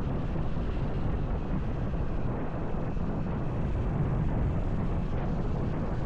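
Steady wind buffeting on the camera microphone while riding a motorcycle, mixed with engine and road noise, at a constant level.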